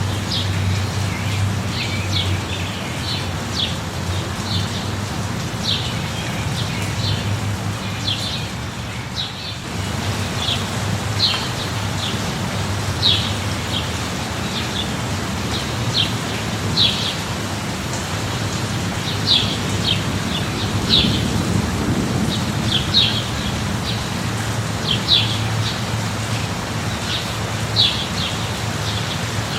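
Steady rain with a low rumble underneath that swells about twenty seconds in, while small birds give short chirps every second or so.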